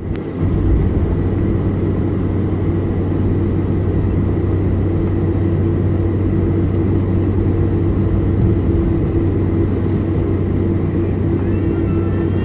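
Steady drone inside a Boeing 747-400's cabin: the jet engines and cabin air running evenly, with a low hum and a thin steady whine, not yet building to takeoff power.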